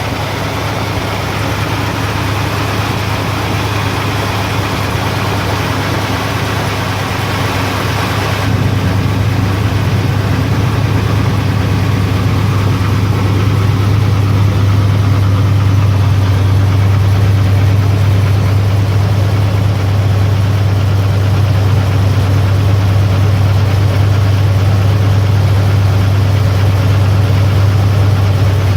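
BluePrint crate engine idling steadily, with a bottom-end knock that the owner takes for a connecting rod or crankshaft problem. It gets a little louder about eight seconds in.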